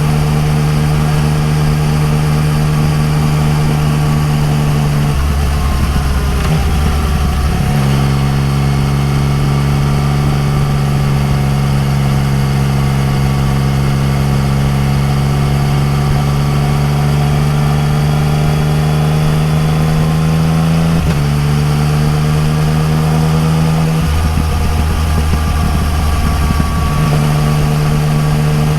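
Yamaha MT-09 Tracer's inline-three engine running through an Akrapovič exhaust at a steady cruise. The engine note shifts briefly about five to eight seconds in, and again about twenty-one and twenty-four seconds in.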